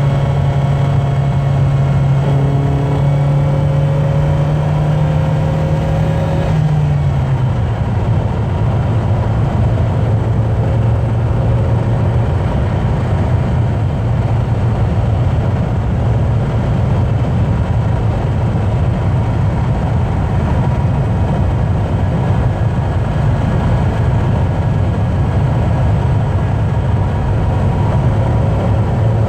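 Car engine and road noise while driving at motorway speed. The engine note rises slightly, steps down in pitch about six seconds in, then runs steady.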